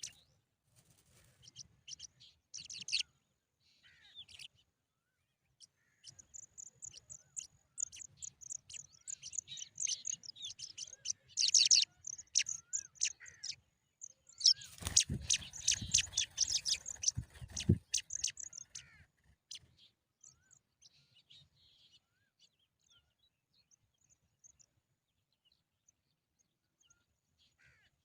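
Small nestling birds begging with rapid, high-pitched cheeps as a parent feeds them. The cheeping swells into a loud frantic burst about halfway through, with rustling and bumping at the nest, then dies down to a few faint chirps.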